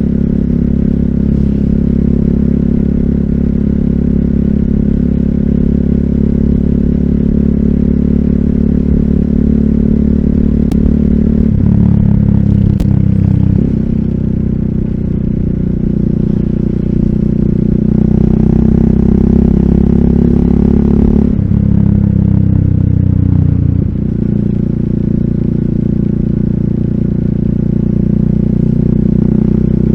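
RUSI Classic 250Fi motorcycle engine running through an Eli's Muffler full exhaust with a bullet slip-on pipe while riding. The engine note changes pitch about twelve seconds in, grows fuller around eighteen to twenty-one seconds in, and changes again around twenty-one and twenty-four seconds in.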